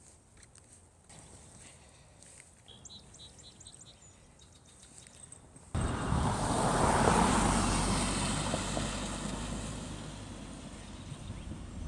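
A car passing along the street: tyre and engine noise that comes in suddenly about halfway through, is loudest a second or so later, then slowly fades away. Before it, a few faint bird chirps.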